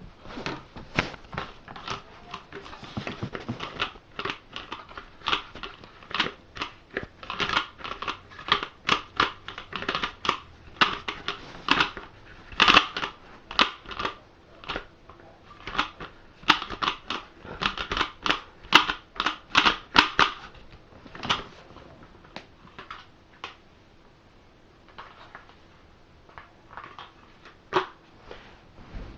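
Plastic parts of a vacuum cleaner's detachable cyclone assembly being handled and refitted: irregular clicks, knocks and rattles, busy at first and sparser after about two-thirds of the way.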